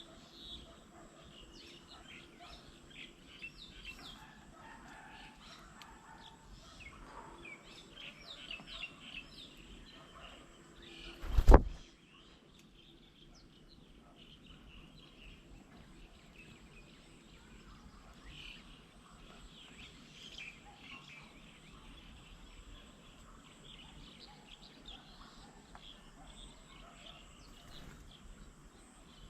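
Small birds chirping and calling in many short, quick notes, a busy mixed chorus that thins out in the middle. About eleven seconds in, one loud, sudden thump.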